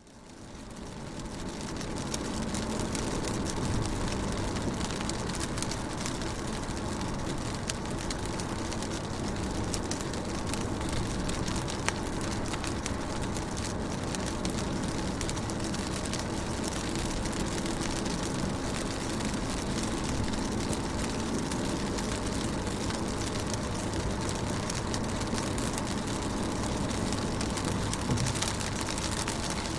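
Rain falling on a car's windows and body: a steady wash of rain with many small drop hits, fading in over the first two seconds.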